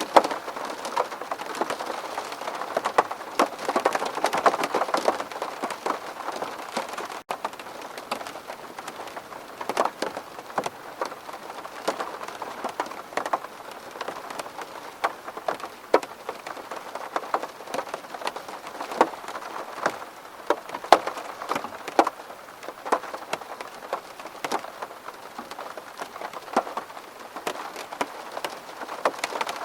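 Rain falling on a window pane: a steady patter with many sharp individual drops striking the glass.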